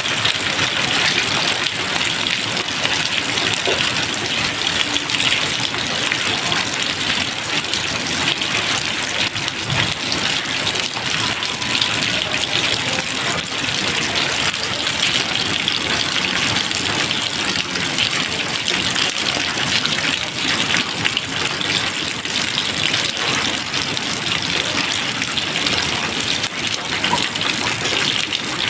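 Steady rain falling, an even, unbroken wash of noise with no thunder.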